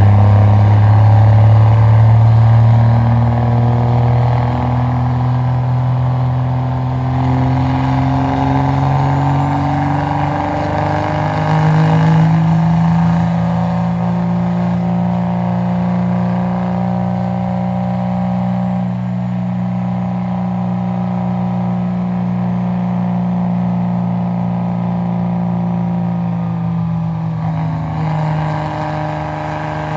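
Diesel truck engine running under heavy load on a chassis dyno, its pitch climbing steadily for about twelve seconds and then holding high and steady.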